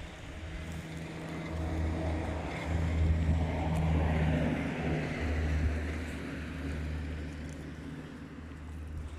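A motor vehicle's engine with a steady low hum, growing louder to a peak in the middle and then fading away.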